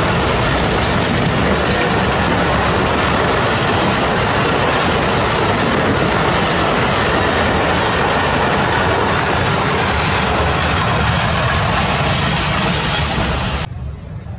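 Pakistan Railways express passenger coaches passing close by at speed: a loud, steady rush and rumble of steel wheels on the rails. About a second before the end it drops suddenly to a much quieter background.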